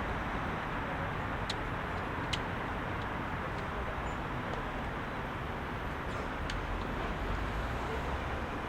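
Heavy rush-hour city traffic: a steady wash of engines and tyre noise. Two short sharp clicks stand out about one and a half and two and a half seconds in.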